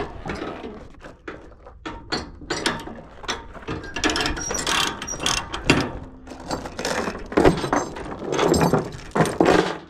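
Ratchet on the trailer's load tie-downs being worked in bursts of rapid clicking strokes.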